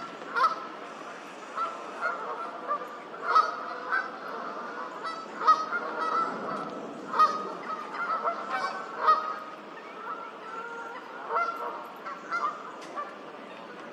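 Geese honking: a run of short, repeated honks from several birds, coming irregularly, sometimes two or three a second, with the loudest about midway through.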